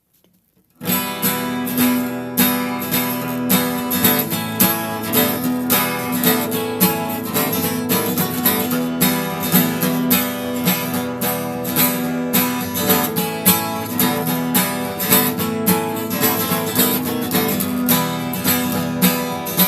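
Acoustic guitar strummed in a steady rhythm, the instrumental introduction to a sea-shanty-style folk song, starting about a second in.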